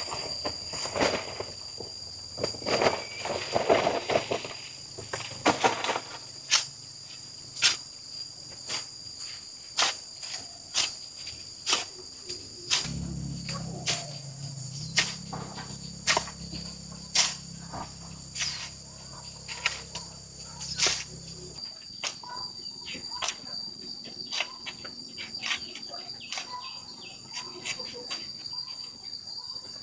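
Insects shrilling steadily in a high, even drone, with sharp knocks repeating about once a second. A low hum joins in about halfway through and stops suddenly some eight seconds later.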